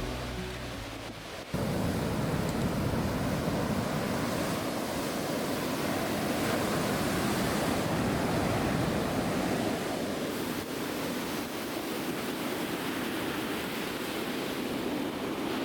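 Sea surf washing and breaking on the shore, a steady rush of waves. Background music cuts off abruptly about a second and a half in, as the surf begins.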